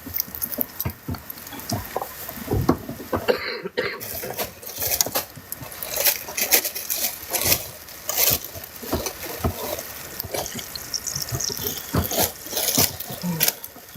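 Cooking at a street food stall: food frying, with frequent short clicks and clatter of utensils working the food.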